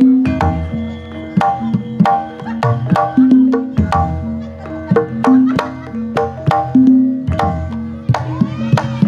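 Banyumasan Javanese gending for an ebeg horse dance: hand-drum strokes over quick, repeating melodies on struck pitched percussion, with a deep low note about every three and a half seconds.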